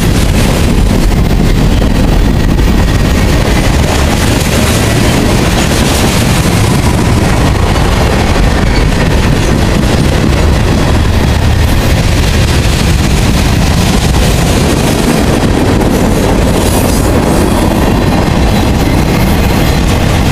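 Freight cars (tank cars, covered hoppers, a boxcar) rolling past on the rails: a loud, steady noise of steel wheels on track.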